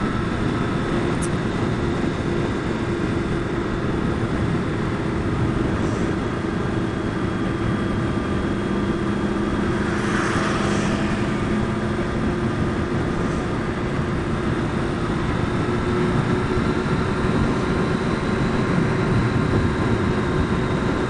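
Motorcycle engine running steadily at cruising speed, with wind and road noise. About halfway through, a brief rush of noise swells and fades.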